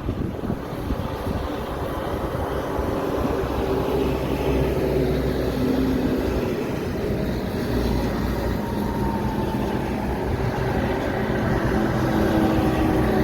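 Heavy truck traffic: a truck's engine drone over steady tyre and road noise, the engine note shifting slightly in pitch as it passes.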